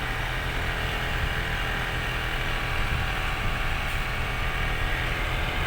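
Truck engine running steadily, a low even hum with road noise over it.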